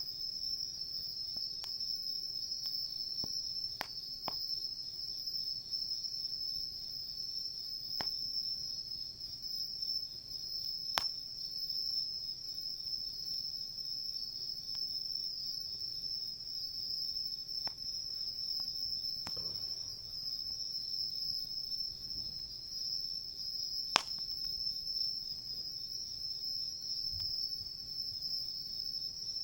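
Crickets chirping in a steady high-pitched trill, with a few sharp crackles and pops from the wood campfire, the loudest pop about three-quarters of the way through.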